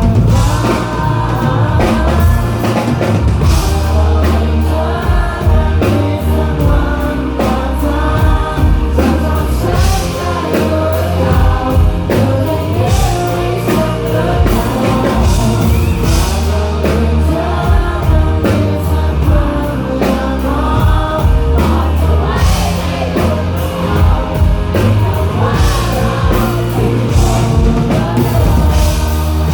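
A rock band playing live with a lead vocal sung in Thai over continuous bass, guitar and drums.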